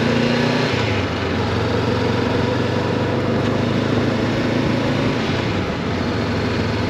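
Honda NX500 motorcycle's parallel-twin engine running steadily.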